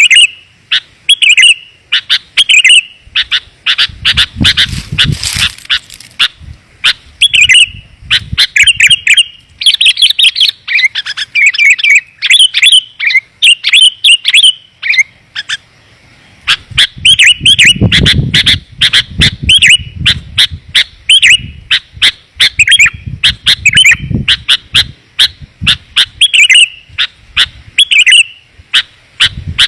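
Sooty-headed bulbuls (kutilang) calling in rapid, loud, repeated chirpy phrases, a lure-call recording of the kind used to bring wild bulbuls in. A low rumble runs under the calls for a couple of stretches.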